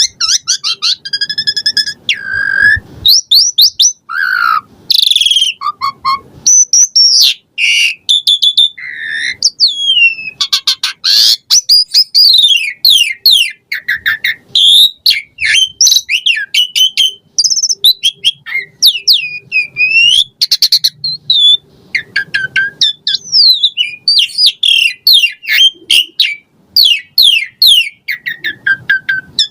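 Asian pied starling (jalak suren) singing energetically, a long, varied song of whistled notes, sliding calls and rapid chattering note-strings with only brief pauses.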